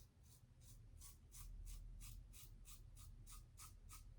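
Gillette Tech safety razor with a 3D-printed base plate scraping through stubble in short, rapid strokes, about four a second, faint and scratchy.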